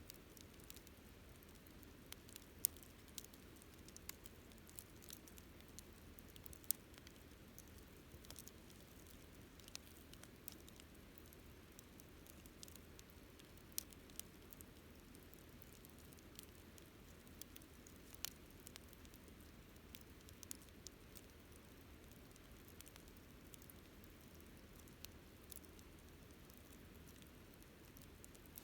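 Wood campfire crackling: scattered, irregular sharp pops and snaps over a faint low hiss.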